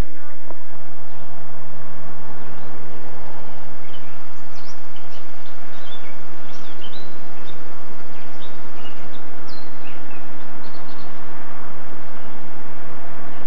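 Birds chirping outdoors: a scatter of short, high chirps from about four seconds in until around eleven seconds, over steady background noise. A low, steady hum is there at the start and comes back near the end.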